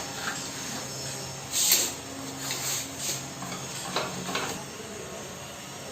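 Metal clinks and scrapes as a motorcycle's front fork tube is worked up into the steering stem clamps, with a sharper clatter about a second and a half in and a few lighter knocks after it.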